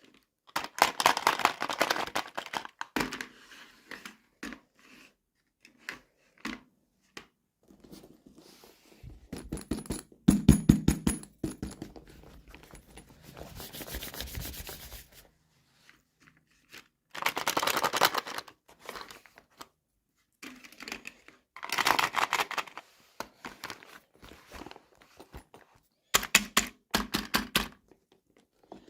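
Toy packaging being handled and torn open by hand, in bursts of crinkling and tearing a few seconds apart, with scattered taps and clicks in between.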